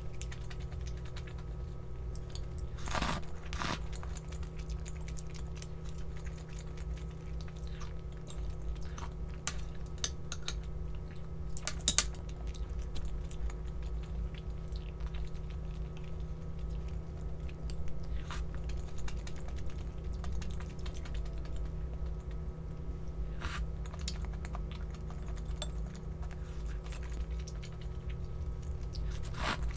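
Close-up eating sounds: food being chewed and bitten, with small ticks and a few sharper clicks scattered through, over a steady low hum.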